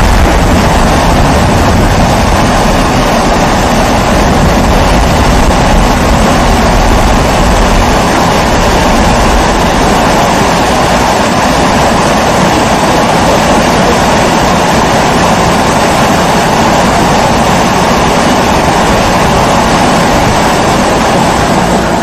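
Pressurised kerosene stove (primus-type babour) burner running with a steady roar.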